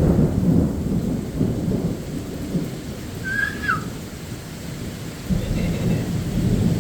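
Thunder rumbling over steady rain during a severe thunderstorm. One rumble swells right at the start and fades over the next second or so, and another builds about five seconds in.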